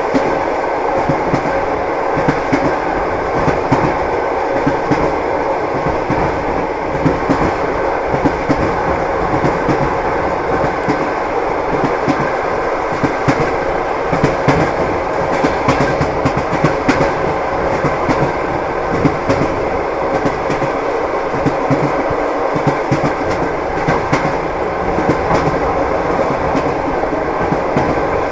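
Moving train heard from inside a passenger carriage: steady wheel-on-rail rumble with the clickety-clack of the wheels knocking over rail joints.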